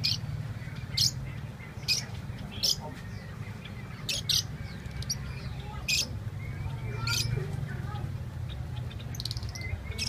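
Small cage birds giving short, sharp, high-pitched chirps at irregular intervals, roughly one a second, over a steady low rumble.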